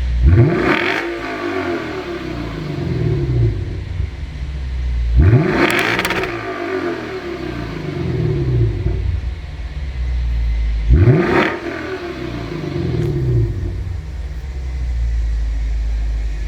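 Lexus RC F's 5.0-litre V8 revved three times through a TOM'S full titanium exhaust. Each rev rises quickly, then falls slowly back to idle, about five seconds apart.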